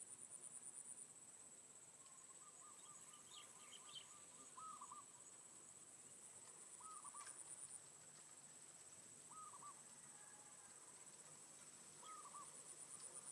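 Faint insect chorus: a steady high-pitched buzz, with spells of pulsed trilling near the start, in the middle and near the end. Over it a bird gives a short low call about every two and a half seconds.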